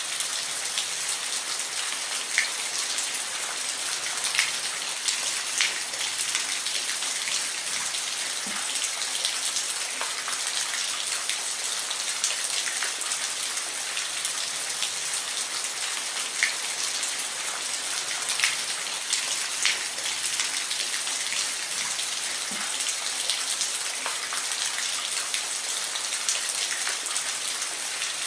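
Steady rain falling, a constant hiss with individual drops clicking now and then.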